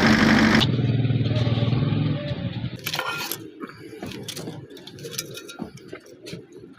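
A vehicle running, a loud steady hum that cuts off abruptly just after the start, with a lower hum that continues and fades out about two seconds in. Then comes a series of scattered sharp clicks and scraping sounds.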